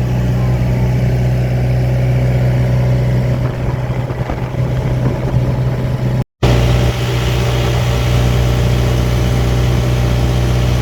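Small boat's engine running steadily at a constant pitch. The sound drops out for an instant about six seconds in, then carries on.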